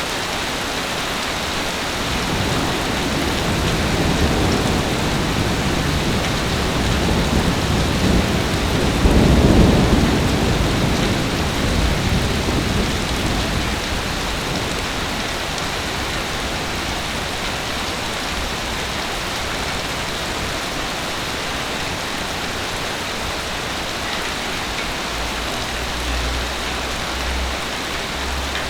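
Heavy rain falling in a steady hiss, with a long roll of thunder that builds a couple of seconds in, peaks about ten seconds in and fades away by about fourteen seconds.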